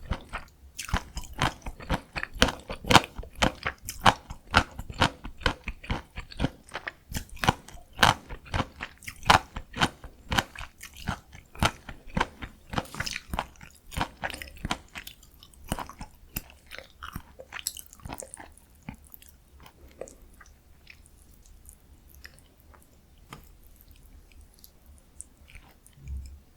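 Close-miked chewing of bibim noodles: a dense run of wet clicks and crunches that thins out and grows quieter over the last third, with one low thump near the end.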